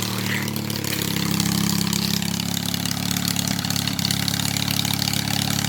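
Small Honda engine of a garden pulling tractor running steadily, getting a little louder after about the first second.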